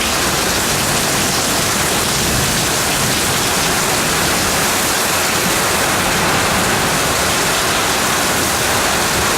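Heavy storm rain pouring down in a steady, dense hiss.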